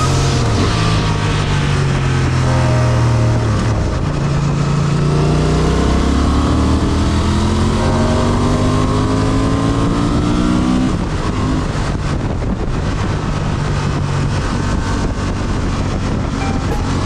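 Motorcycle engine pulling on the road, its pitch falling and then climbing steadily under acceleration. It drops at a gear change about eleven seconds in and climbs again, over steady wind and road noise.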